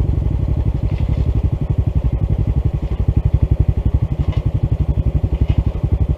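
Honda CT125's single-cylinder four-stroke engine idling with an even, rapid putter.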